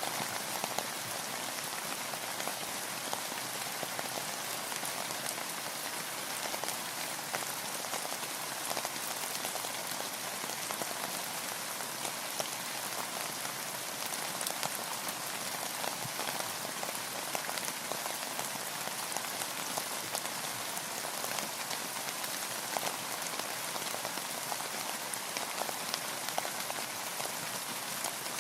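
Steady rain falling, a dense patter of many fine drops.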